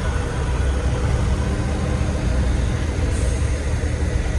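Heavy diesel truck engine running, a steady low rumble.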